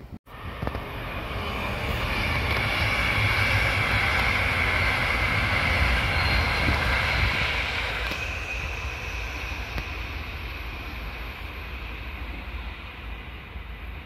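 Electric locomotive and double-deck regional coaches passing on the line: a steady rumble of wheels on rail with a high whine, swelling in the first couple of seconds, dropping sharply about eight seconds in, then fading as the train draws away.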